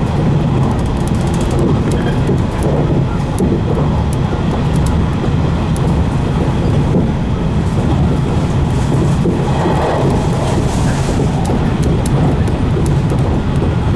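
Interior running noise of a 115 series electric multiple unit at speed: a steady rumble from the bogies and traction motors, with frequent light clicks from the wheels on the rail.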